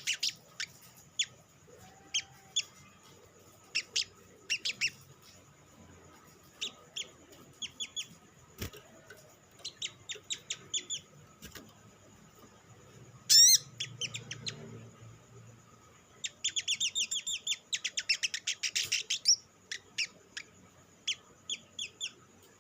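Olive-backed sunbird calling: sharp, high chip notes in short irregular series, with one loud squeaky burst about halfway through and a fast chattering run of notes lasting about three seconds later on.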